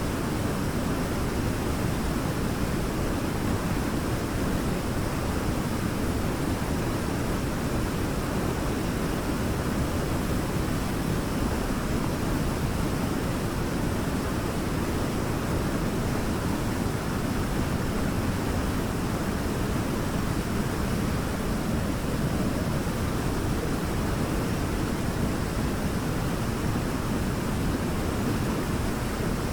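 Waterfall pouring steadily: a constant, deep rush of falling water with no change in level.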